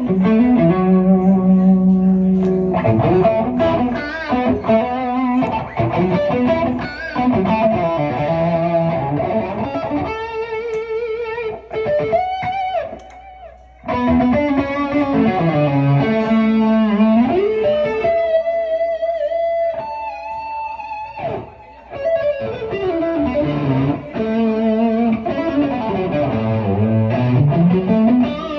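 Fender Elite electric guitar played through a Neural DSP Quad Cortex amp modeler, heard raw with no added processing. Melodic lead lines with string bends, slides and vibrato, with a short pause about halfway through.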